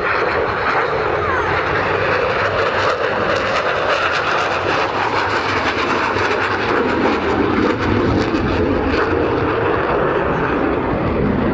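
Loud, continuous jet noise from Blue Angels F/A-18 Super Hornets flying past in formation. The roar deepens in pitch over the middle of the pass.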